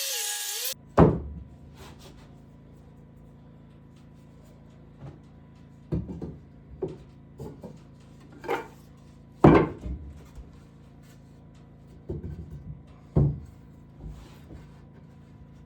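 Irregular wooden knocks and thuds, about a dozen, as lumber is handled and set down in a small wooden room. The loudest come about a second in and just past the middle, over a steady low hum. Background music cuts off just before the first knock.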